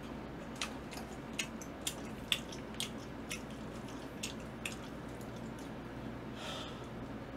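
A man chewing sauced fried chicken: soft, wet mouth clicks and smacks, about two a second, then a brief soft hiss near the end.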